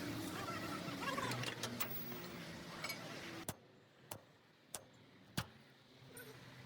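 Busy background noise that drops away suddenly about halfway through, followed by four sharp, evenly spaced taps, about one every two-thirds of a second.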